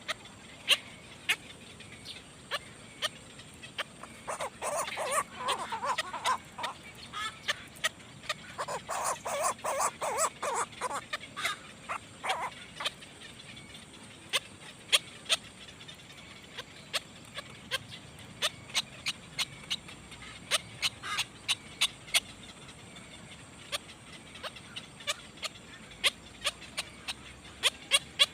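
Nestling birds calling: short, sharp chirps keep coming, with two bouts of rapid, busier calling, the first about four seconds in and the second a few seconds later.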